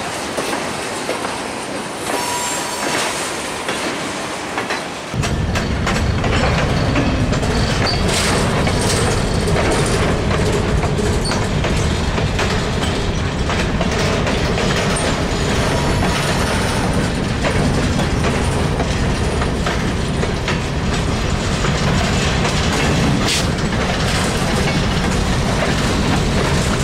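Covered hopper cars of a freight train rolling past, wheels clattering over the rail joints with a brief wheel squeal. About five seconds in, a heavier low rumble sets in and holds steady.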